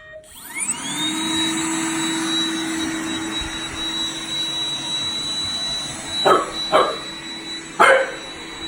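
Roomba 985 robot vacuum's suction motor spinning up with a rising whine, then running steadily. Three short sharp sounds cut in over it near the end.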